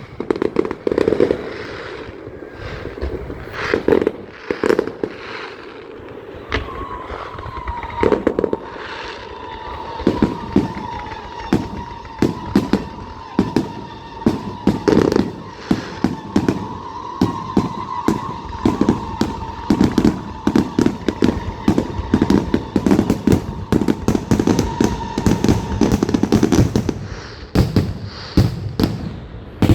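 Fireworks display: a string of aerial shell bangs with crackle, coming faster and denser from about a third of the way in to near the end. A long steady high tone sounds over the bangs for most of that time.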